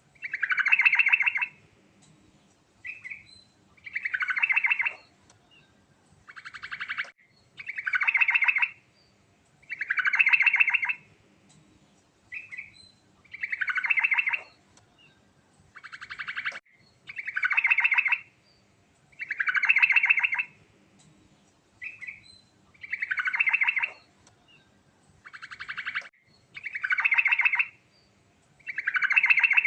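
Sooty-headed bulbul (trucukan) singing a rolling song: a fast trilled, rattling phrase repeated about every two seconds, with short single notes between some phrases.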